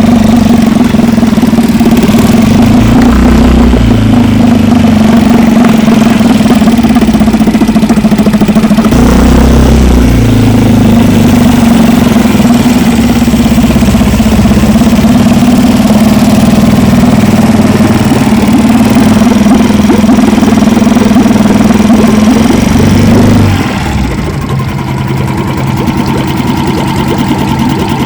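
Outboard boat motor running steadily at a fast idle, then throttled back about four-fifths of the way through, settling into a quieter, lower trolling-speed run.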